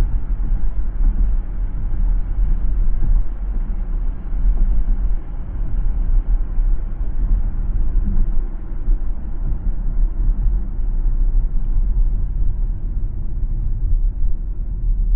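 Steady low rumble of a car driving on the road, tyre and road noise with the engine underneath, rising and falling a little but with no distinct events.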